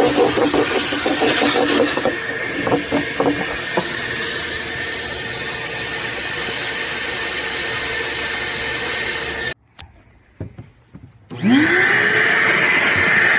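High-pressure car-wash spray wand hissing steadily against the vehicle. About ten seconds in it cuts off for a couple of seconds, then starts again with a quickly rising whine as the pump comes back up to speed, and the spray hiss resumes.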